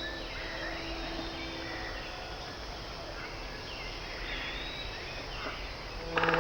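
Small birds chirping over a steady outdoor background hiss. Faint held musical notes die away in the first two seconds, and loud string music comes in just at the end.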